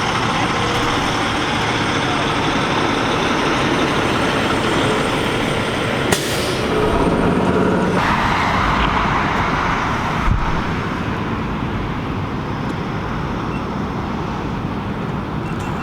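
Steady motor-vehicle and traffic noise with an engine running, and a single sharp click about six seconds in.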